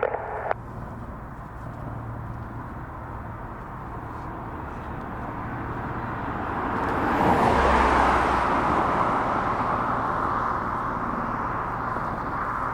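Aircraft passing by, its engine noise swelling to a peak about seven or eight seconds in, with a brief low rumble at the peak, then slowly fading.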